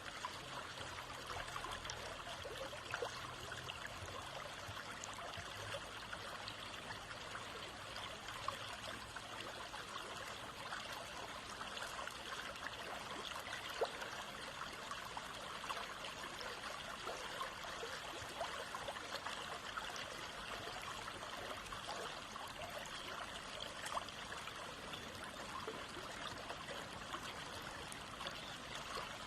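Stream water running steadily, with small splashes and trickles scattered through it.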